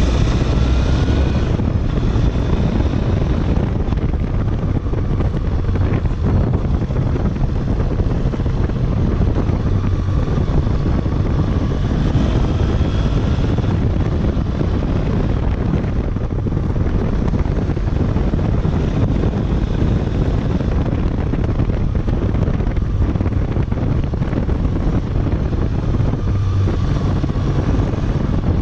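Triumph Bonneville parallel-twin motorcycle engine running steadily, a continuous low rumble with a few gentle rises and falls in pitch.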